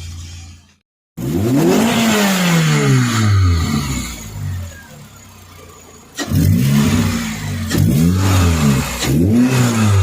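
Toyota 2ZZ four-cylinder engine being revved: one long rev about a second in that rises and falls back over a couple of seconds, then after a quieter stretch, a sharp rev near six seconds and two more quick blips near the end.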